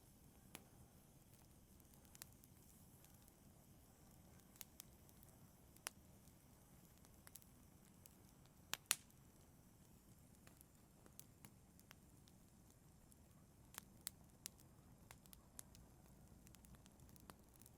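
Wood fire crackling in a fireplace: faint, scattered sharp pops over a soft low rumble, with a louder double pop about nine seconds in.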